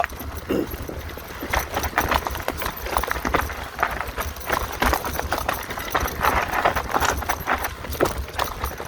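Mountain bike clattering and rattling over a rough singletrack trail, with rapid irregular knocks and a low rumble underneath.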